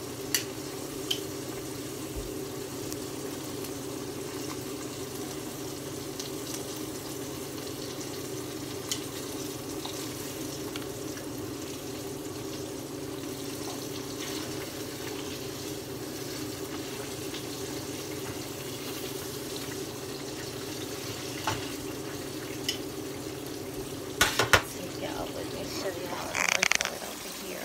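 Food frying in a skillet of hot grease, a steady sizzle throughout, with a few light clicks and a cluster of louder knocks and handling noise near the end.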